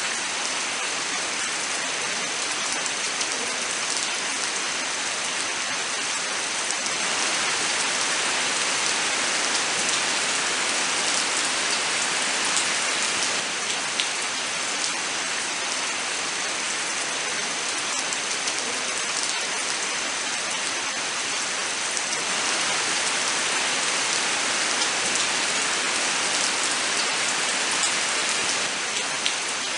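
Steady rain falling, with a continuous hiss and individual drops landing close by as scattered sharp ticks.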